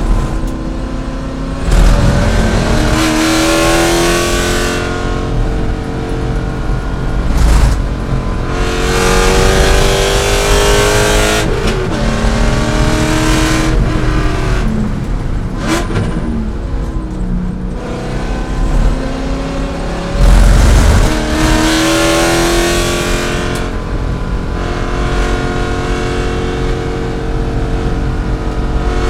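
A C5 Corvette's V8 at racing load, revving up through the gears in rising sweeps and dropping in pitch on lifts and downshifts, with a few brief louder surges.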